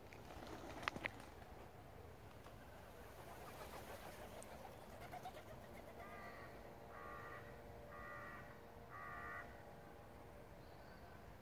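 Faint background with two sharp clicks about a second in. Then a bird calls four times, about a second apart, each call about half a second long.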